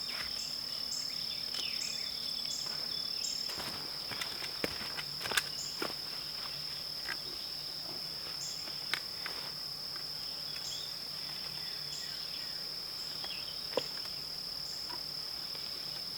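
Insects trilling in one steady high tone, with a higher chirp repeating about twice a second for the first few seconds and then more sparsely. Scattered light clicks, knocks and rustles of handling, clustered a few seconds in, with single ones later.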